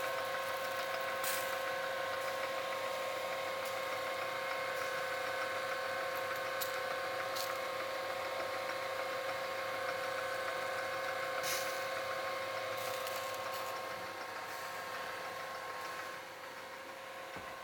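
Homemade electric rotisserie spit motor and gearing running with a steady whine, with a few sharp clicks scattered through. It grows quieter and part of the whine drops out near the end.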